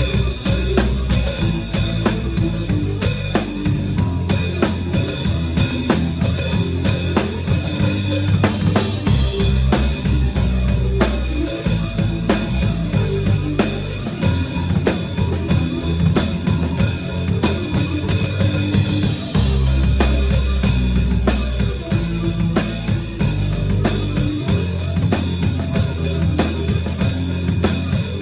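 A live rock band playing: a drum kit's bass drum and snare keeping a steady beat over held low bass notes that change every few seconds.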